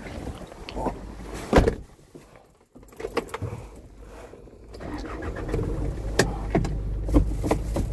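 Small clicks and knocks with one loud knock about one and a half seconds in, then a vehicle engine running with a steady low rumble from about five seconds in.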